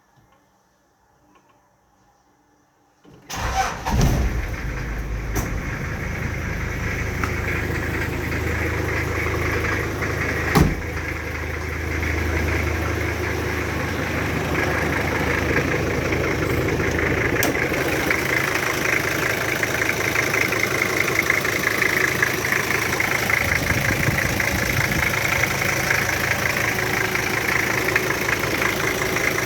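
Toyota Land Cruiser 76 series' 1PZ five-cylinder diesel engine starting: after about three seconds of near quiet it cranks, catches and settles into a steady idle. One sharp click stands out about ten seconds in.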